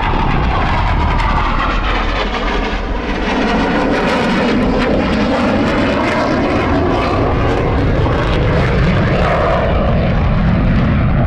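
Eurofighter Typhoon's twin jet engines, loud and continuous, as the jet manoeuvres through its display. The pitch bands of the noise waver and sweep slowly down and up as it turns past.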